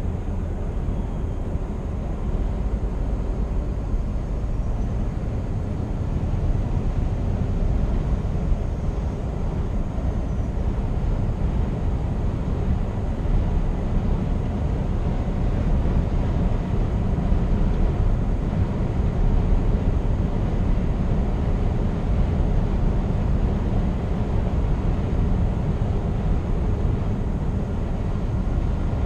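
Scania R490 truck on the move: a steady low drone of the 13-litre straight-six diesel mixed with road and tyre noise.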